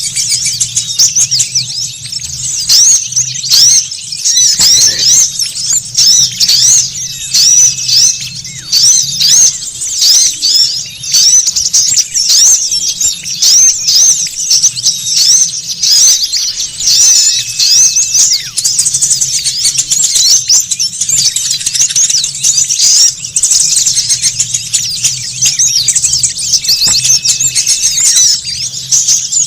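Several small songbirds chattering noisily over one another in a bird-lure recording: a dense, unbroken stream of quick, high-pitched chirps and twitters. A faint low hum runs underneath.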